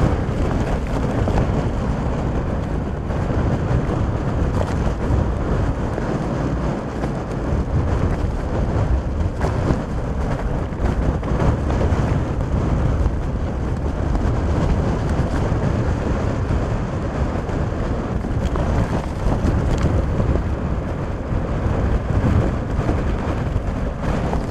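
Storm winds of about 60 mph blowing hard over the microphone: a loud, continuous rush of wind noise that swells and eases with the gusts.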